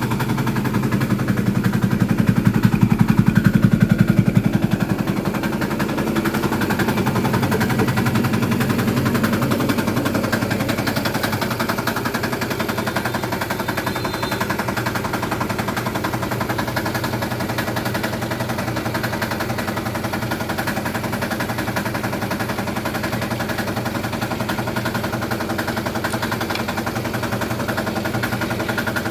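Small engine running steadily with a rapid, even chatter of firing pulses, louder for a few seconds near the start and then holding an even note.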